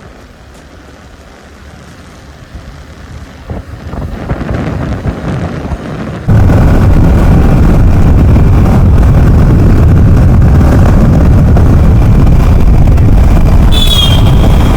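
Motorcycle on the move: engine and road noise build over the first few seconds, then about six seconds in heavy wind buffeting on the microphone suddenly takes over and stays loud.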